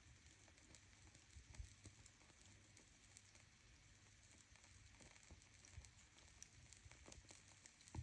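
A fire crackling faintly in a fireplace or stove, with scattered small ticks and pops over a soft hiss.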